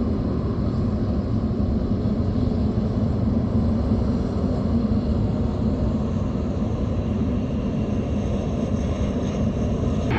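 Jet airliner's engines with a steady low rumble, a faint high whine coming in over the last couple of seconds.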